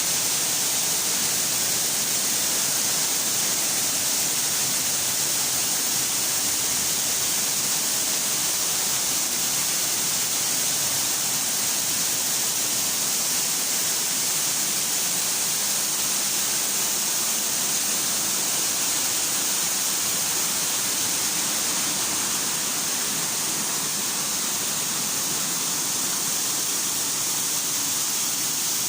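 Falling water rushing steadily, an even hiss with no breaks or changes.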